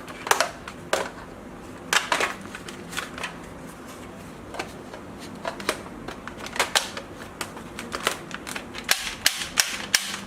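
Plastic clicks and knocks from a toy sniper gun and its parts being handled, irregular and coming more often near the end.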